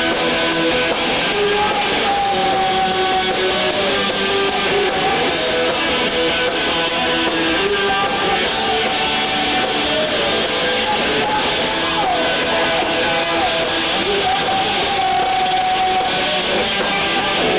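Emo band playing live and loud: distorted electric guitars with bending, sustained notes over drums with steady cymbal hits.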